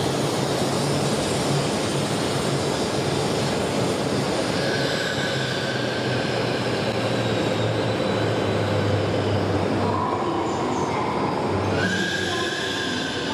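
E5-series Shinkansen train moving slowly along the station track: a steady rumble and hum, with thin high whining tones that come and go from about four seconds in.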